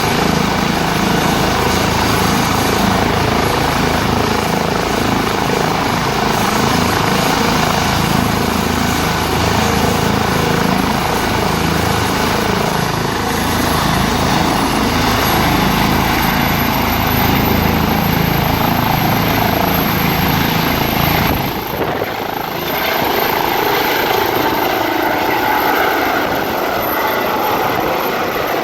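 Airbus EC135 helicopter's twin turbines and rotor running, a high turbine whine slowly rising in pitch from about halfway through. About three-quarters of the way in, the deep rotor sound drops away suddenly, leaving a lighter, higher sound.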